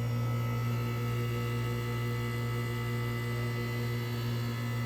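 1984 Carrier Sierra 17,900 BTU window air conditioner running with its fan on low, giving a steady low hum with a stack of steady higher tones. It doesn't sound the greatest, which the owners put down to compressor oil that has not flowed in over a year and a compressor that may still be cold.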